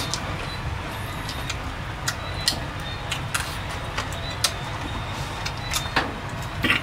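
Close-up eating sounds of people chewing fried mouse: irregular sharp wet clicks and crunches from chewing and lip smacking, about ten in all with a cluster near the end, over a steady low rumble.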